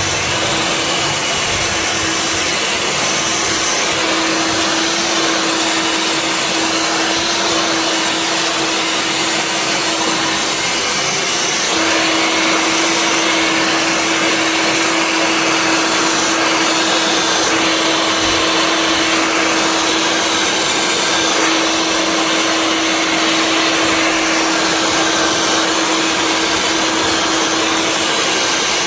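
Hair dryer blowing steadily, a rush of air over a steady motor hum, getting a little louder about twelve seconds in.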